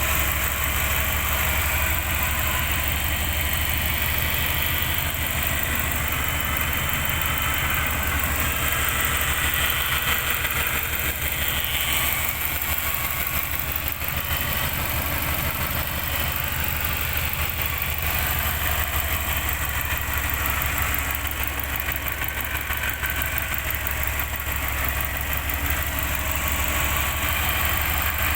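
Subaru Legacy BH5 GT-B's 2.0-litre twin-turbo flat-four boxer engine idling steadily with its deep, uneven 'doko-doko' boxer rumble.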